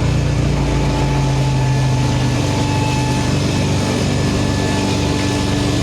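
Steady machine drone with several held tones; its lowest tone shifts slightly about two and a half seconds in.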